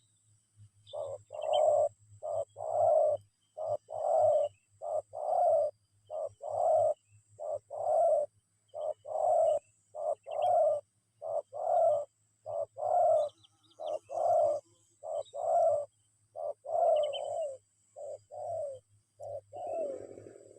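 Spotted dove cooing: a long run of low coo notes in repeated phrases, one to two notes a second with short breaks between groups.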